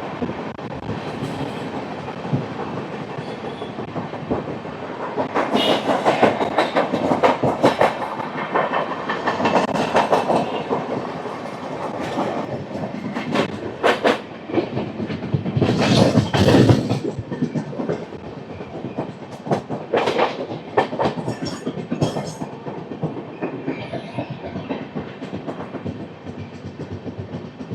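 Superfast express train running along the track: a continuous rumble with clickety-clack of the wheels over rail joints, louder for a few seconds about a fifth of the way in and again a little past halfway.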